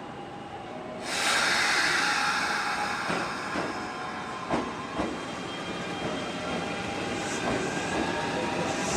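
Kintetsu 1233 series and 8600 series express train starting to pull out. A sudden loud hiss of air comes about a second in as the brakes release, then a few sharp clacks of the wheels over rail joints as it begins to roll.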